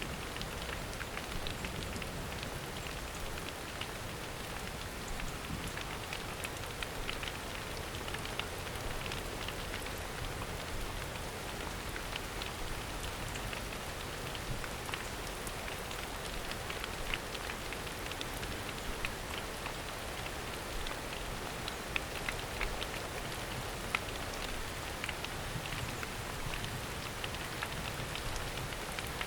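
Steady rain falling in a forest, many separate drops ticking against a constant hiss, with a few louder drop hits scattered through.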